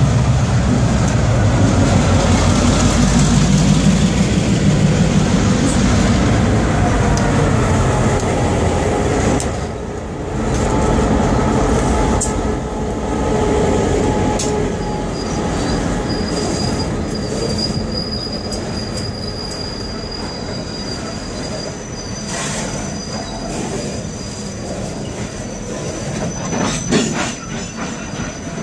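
Freight train passing close by: the diesel locomotive's engine rumbles loudly as it goes past over the first several seconds. Then the freight cars roll by with high steady wheel squeal and, near the end, a run of sharp clicks from wheels crossing rail joints.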